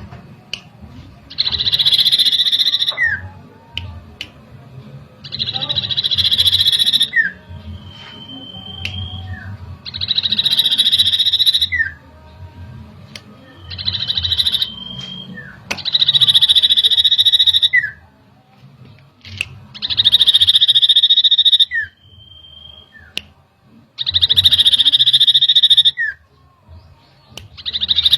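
Common iora (cipoh) singing: a loud buzzy trill about two seconds long, repeated roughly every four seconds, each phrase ending in a short falling note, with a brief clear whistle between some phrases. This is a lure song meant to provoke a caged iora into singing.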